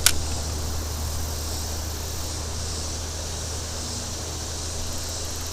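Steady rush of creek water, with a single sharp click right at the start.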